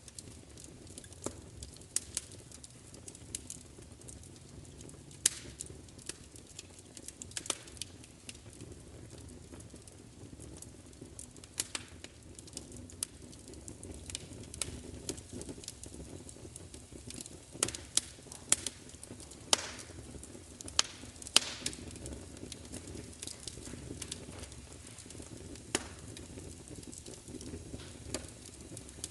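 Wood fire crackling: irregular sharp pops and snaps over a low, steady rumble of burning. A cluster of louder pops comes a little past halfway.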